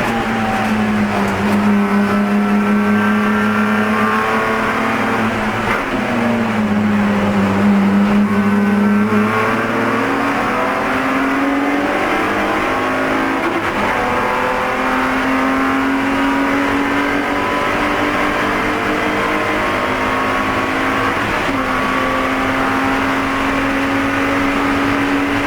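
BMW Spec E46 race car's 3.0-litre inline-six, heard from inside the car at racing speed. The engine note drops near the start and dips and climbs over the next several seconds, then holds a high, nearly steady pitch, dipping briefly twice.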